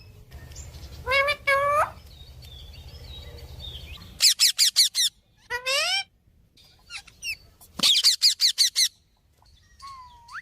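Pet parrot calling: a couple of rising calls, then two quick runs of short shrill repeated screeches, with single gliding calls and a short rising whistle between.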